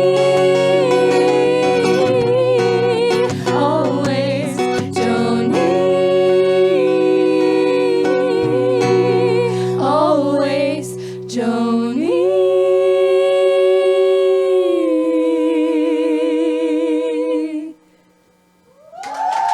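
Live wordless singing or humming: a woman's voice holding long notes with vibrato over sustained low accompaniment. The music cuts off sharply near the end, and after a short gap another note swells in.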